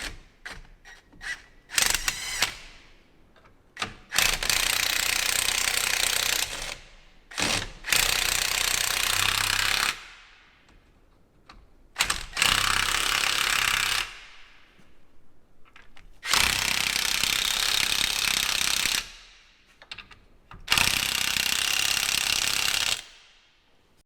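Impact wrench running in five bursts of two to three seconds each, with short pauses between them, driving in the bolts that mount a corn head gearbox. A few light metal clicks come before the first burst.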